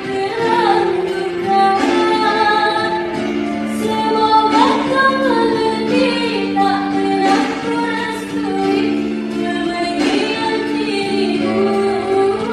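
Two female voices singing a melody with long held notes over musical accompaniment.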